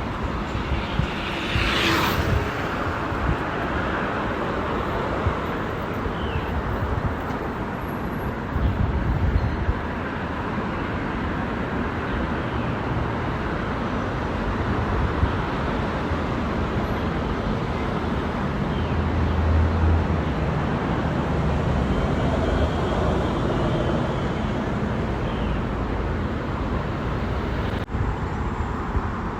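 Steady road and traffic noise heard from a moving bicycle, a continuous rumble with uneven low thumps, and one brief hiss about two seconds in.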